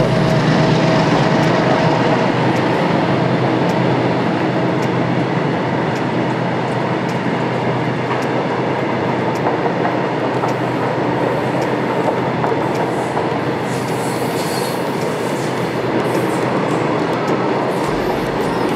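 Long Indian Railways goods train of covered wagons running past at speed: a loud, steady rumble of steel wheels on rail with clicks as the wheels cross the rail joints, and a brief squeal of wheels about three-quarters of the way through.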